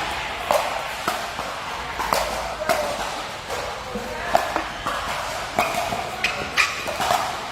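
Sharp hits of a ball being struck back and forth in a doubles rally, roughly one every half second to second, over background voices and chatter.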